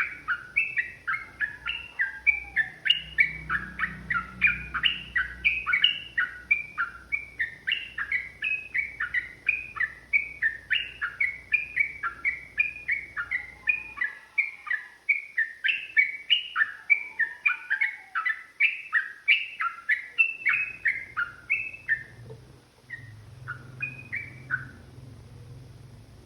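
Yellow-vented bulbul (trucukan) singing a long, fast unbroken run of short chattering notes, about four a second, which thins to a few scattered notes near the end.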